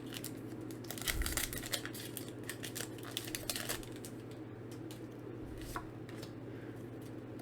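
Foil Pokémon booster pack being torn open and crinkled, a quick run of small crackles and rustles that thins out after about four seconds.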